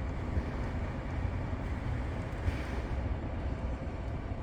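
The 2022 Toyota Tundra's twin-turbo 3.5-litre V6 idling, heard from inside the cab as a steady low rumble.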